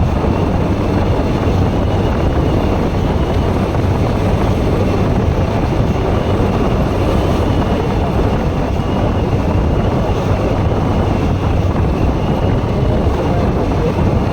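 A Bajaj Pulsar NS160 motorcycle ridden at a steady speed: loud wind rush on the microphone over the engine's even running.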